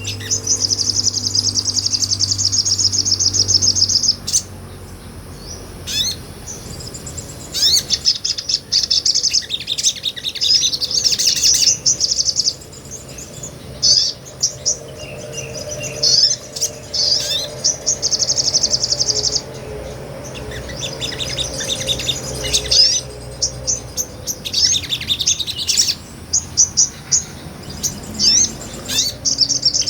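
A sunbird (sogon) singing: fast, high-pitched trills and chattering twitters in bursts, broken by short pauses.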